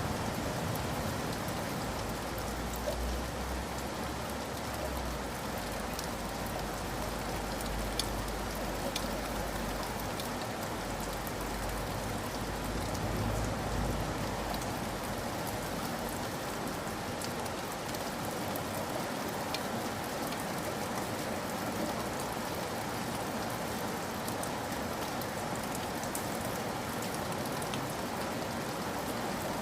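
Steady rain falling on surfaces, an even hiss with scattered sharper drop ticks. A low rumble sits under it through the first half and fades out about halfway through.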